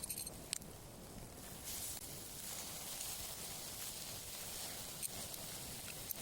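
Wood campfire burning: a faint steady hiss that comes in about two seconds in, with a few sharp crackling pops.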